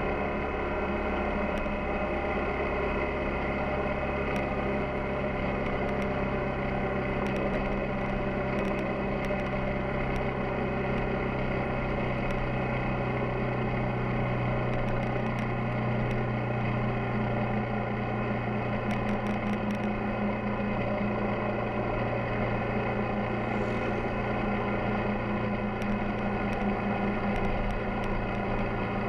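Yamaha XTZ 250 Ténéré's single-cylinder engine running at a steady, nearly unchanging speed while riding, with a few faint ticks over it.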